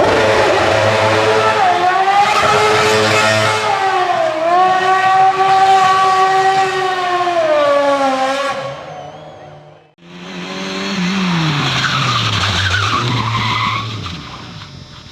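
Competition car engine revving hard, its pitch rising and falling through the gears, with tyres skidding. It cuts off abruptly about ten seconds in, and another car's engine follows, its pitch falling steadily as it slows or passes.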